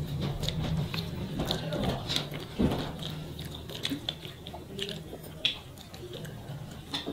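Close-miked eating sounds: chewing and mouth clicks, with soft squelches of fingers mixing rice, as rice and curry are eaten by hand. Many small irregular clicks over a faint low steady hum.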